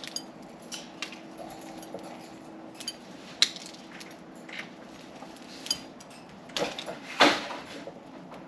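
Budgerigars pecking at and cracking millet seeds: scattered short, sharp clicks and taps, with a louder brief sound about seven seconds in.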